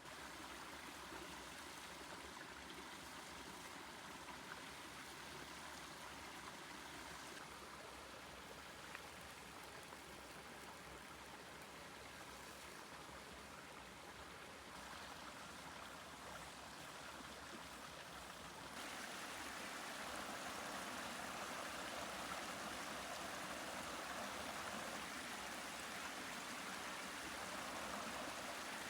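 Steady rushing noise of flowing water, a little louder from about two-thirds of the way in.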